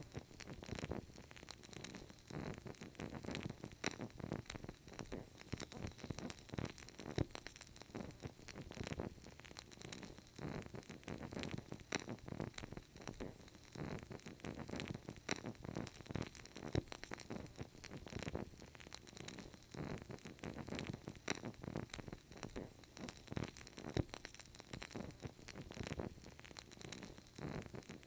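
Burning candle: soft, irregular crackling with many small pops and ticks over a faint hiss.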